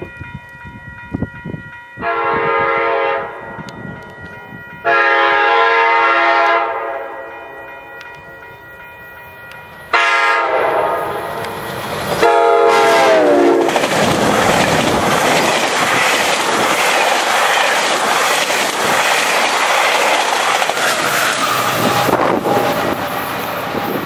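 GO Transit bi-level commuter train sounding its horn three times as it approaches: a short blast, a longer one, then a long blast that drops in pitch as the train reaches the camera. The coaches then rush past with steady wheel and rail noise.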